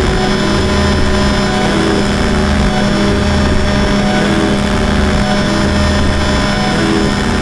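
Electronic drone-noise music from guitar pedals and delay effects: a dense wash of noise over a steady low drone and held tones. A deep low pulse swells and fades about once a second.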